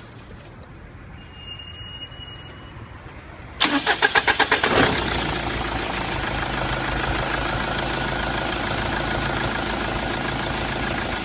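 TX4 London taxi's VM 2.5 CRD 16-valve four-cylinder diesel engine cranked by the starter, about eight quick turns over a second, then firing and settling into a steady idle. A short high beep sounds a couple of seconds before the cranking.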